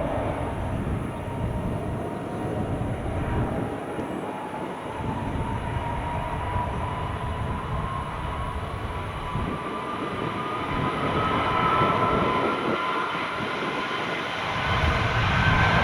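Jet airliner engines running with a steady rumble, and a whine that climbs slowly in pitch throughout; the sound grows louder near the end.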